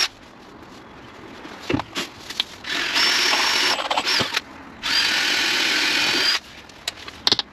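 Power drill running in two bursts of about a second and a half each, a steady high motor whine, with a knock between them and a few clicks near the end.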